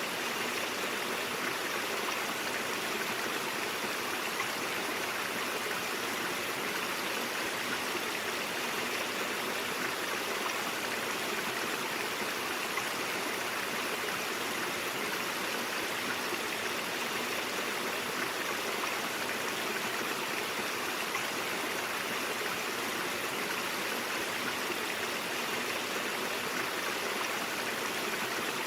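Mountain stream flowing over rocks: a steady, even rush of water with a gurgling texture.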